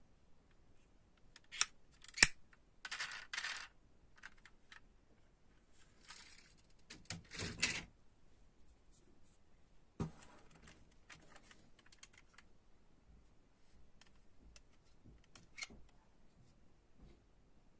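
Scattered clicks, taps and rustling from handling die-cast model cars and their plastic and cardboard packaging. There is a sharp knock about two seconds in and another about ten seconds in.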